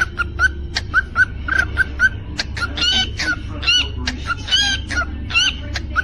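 Cockatiel chirping and whistling: a run of short repeated chirps, about three a second, broken in the middle by a longer warbling phrase of bending whistled notes. A steady low hum lies underneath.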